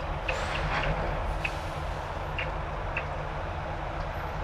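Semi-truck diesel engine idling: a steady low hum, with a few faint short ticks over it.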